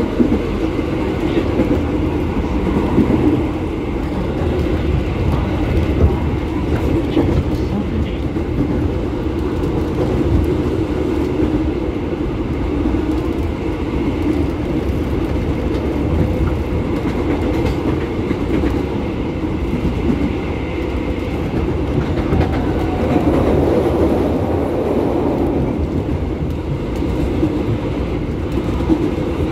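IGBT-VVVF electric commuter train heard from inside the car while running at speed: a steady rumble of wheels on the track and running gear.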